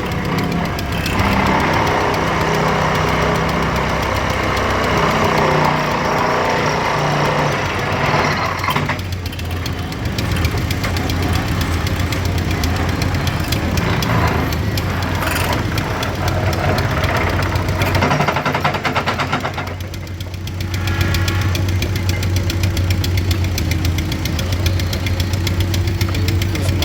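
Engine of road-works heavy machinery running, a steady low drone with rapid knocking pulses, easing briefly about two-thirds of the way through.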